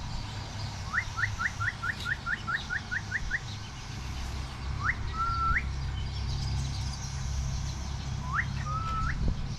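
A person whistling to call a crocodile out of the water. First comes a quick run of about ten short rising whistles, then twice a longer call that sweeps up, holds a steady note and flicks up again.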